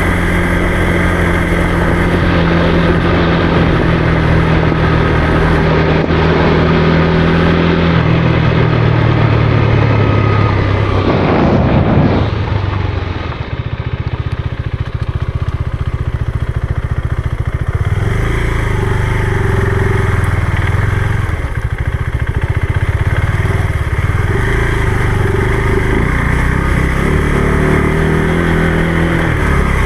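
Motorcycle engine running under way, its pitch shifting with the throttle. About twelve seconds in the note falls away and the sound briefly drops, then the engine pulls steadily again.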